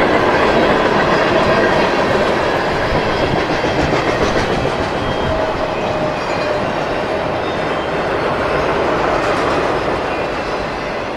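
Freight train cars rolling past close by, wheels clacking over the rail joints in a steady rumble, with faint wheel squeal. It eases off slightly near the end.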